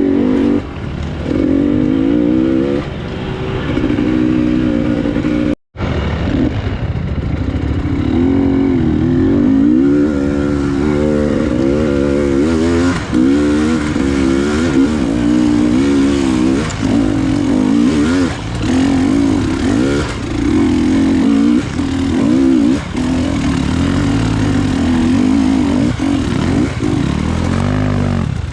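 Enduro motorcycle engine revving up and down over and over as it is ridden, with a brief dropout about six seconds in.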